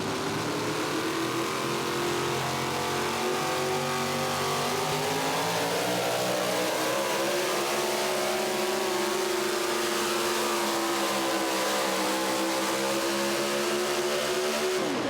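Four-wheel-drive pulling truck's engine running at high revs under load during a pull. The pitch holds steady, rising a little and wavering, with a loud hiss above it.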